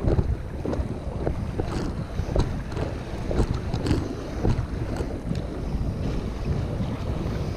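Wind buffeting the microphone over water lapping against a kayak, with many small irregular splashes and knocks.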